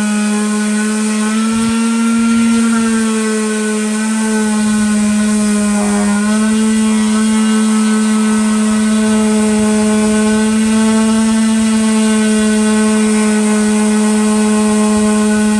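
Electric power sander running steadily on a wood round, a loud, even motor hum. Its pitch rises slightly about two seconds in and dips briefly about six seconds in.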